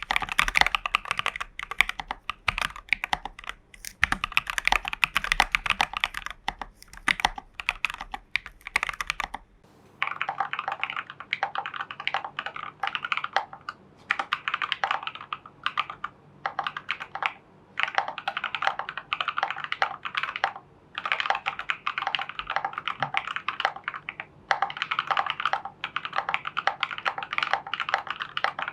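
Typing on a custom mechanical keyboard, a Hades v1.3 kit with Prevail Epsilon switches, Durock v2 stabilisers and Geekark BOW keycaps. It goes in steady runs of keystrokes broken by short pauses. About ten seconds in, the sound turns duller, losing its sharpest treble.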